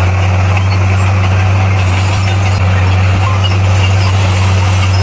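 Bulldozer's diesel engine running steadily under load, a loud, even, low hum.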